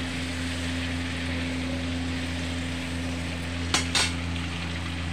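Chicken pieces sizzling as they fry in oil in a steel kadhai on an induction cooktop, over a steady low hum. Just under four seconds in, the slotted spoon clicks twice against the pan.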